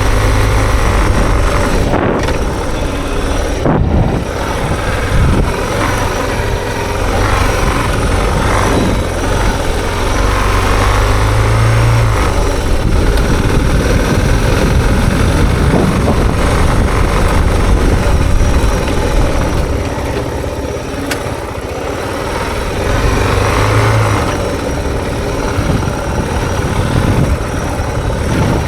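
Suzuki DR650's single-cylinder engine running as the dual sport motorcycle is ridden along a dirt road, with a steady rush of noise over it and a couple of sharp knocks a few seconds in.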